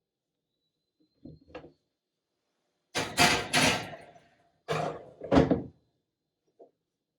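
Hard knocks and clatters of coffee-making equipment being handled: a couple of light taps, then a quick run of loud sharp clacks and two more a second later, each ringing briefly.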